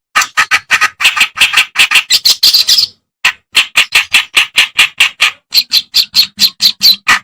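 Clamorous reed warbler (kerak basi) singing a loud, fast string of harsh, chattering notes, about five or six a second, with a short break about three seconds in.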